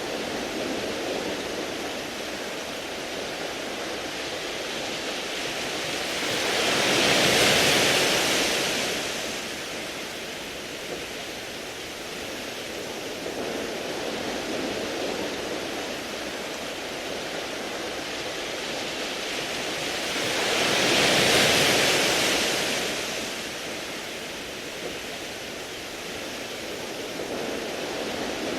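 Sea waves washing over a beach of smooth round pebbles: a steady wash with two larger waves swelling in and fading, about fourteen seconds apart.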